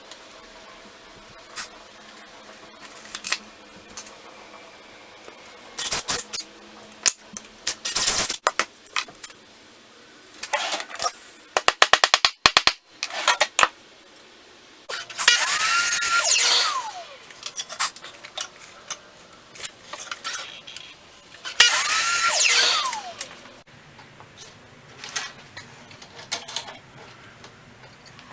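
Power drill run in two bursts of about two seconds each, its motor pitch rising and falling with the trigger, between scattered knocks and clicks of parts being handled.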